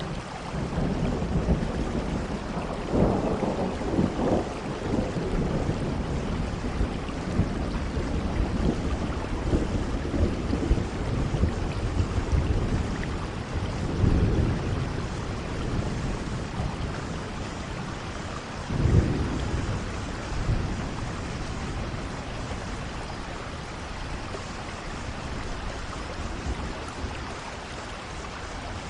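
Steady heavy rain with rolls of thunder rumbling through it, the strongest a few seconds in, again near the middle and about two-thirds through.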